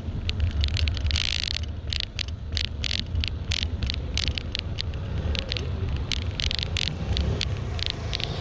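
Bicycle ride recorded on the move: a steady low rumble of wind and road on the microphone, with many irregular sharp clicks and rattles, and a brief hiss about a second in.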